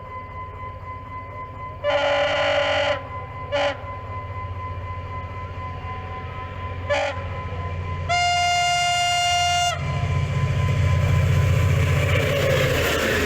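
Henschel diesel locomotive horn sounding over the low rumble of the engine: a blast of about a second, two short toots, then a longer blast of nearly two seconds. After that the engine grows louder and a rising rush of noise builds as the train comes on.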